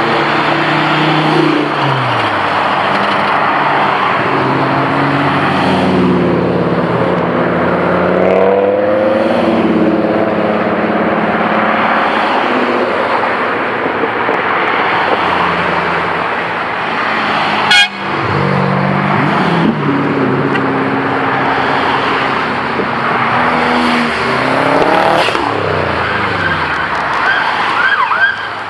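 High-performance car engine revving up and down through several gear changes over a steady rushing noise, with one sharp crack about eighteen seconds in.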